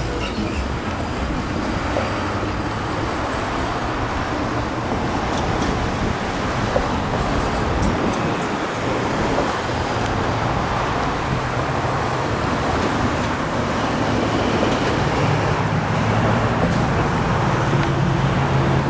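Steady road traffic noise from passing vehicles, with a low engine hum growing louder in the last few seconds.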